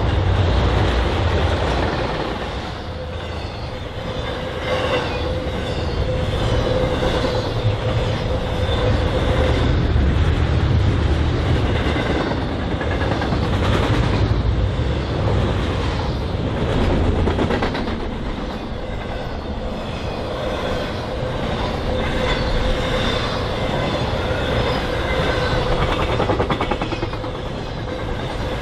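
Freight train cars rolling past with a steady rumble and wheel clatter, and a faint steady whine throughout.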